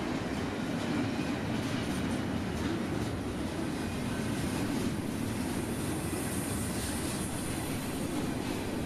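Norfolk Southern freight train rolling past, a steady rumble of cars on the rails, with a high hiss rising over it from about six to seven and a half seconds in.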